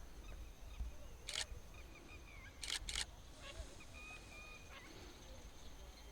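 Camera shutter firing three times: once about a second and a half in, then twice in quick succession near the middle. Faint calls of ducks on the water sound throughout.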